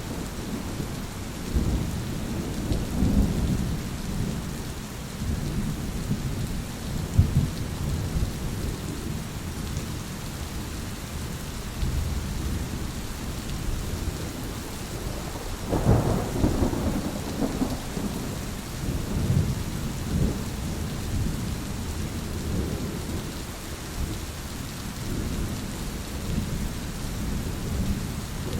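Thunderstorm: steady rain falling with rolling thunder rumbling through. A louder peal of thunder comes a little past halfway.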